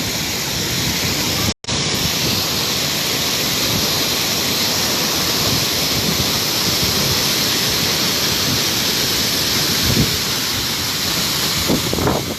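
Waterfall: a steady rush of falling water, which breaks off for an instant about a second and a half in.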